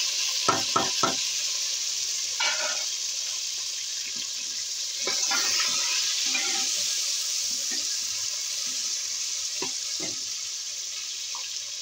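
Chopped tomatoes, green chilies and ginger sizzling in hot oil on browned onions and garlic in a metal pan, with a metal spoon scraping and knocking against the pan as they are stirred. There are three quick knocks in the first second, then scattered scrapes.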